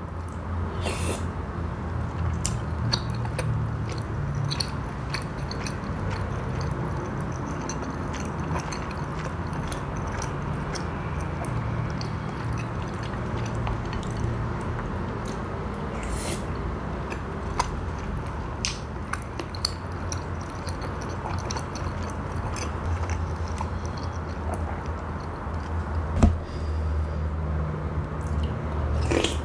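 Close-miked chewing of pempek, soft Palembang fish cakes in their sauce, with wet mouth sounds and scattered light clicks. A single louder knock comes about 26 seconds in.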